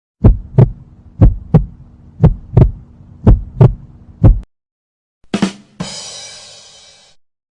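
Heartbeat sound effect: low double thumps, lub-dub, about once a second, four times over, ending on a single thump. A sharp hit follows a little after halfway, then a hiss that fades away.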